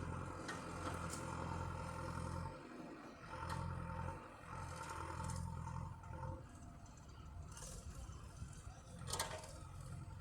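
Tractor engine labouring under a heavy load, its low drone swelling in three pulls and easing off about six seconds in; a sharp click near the end.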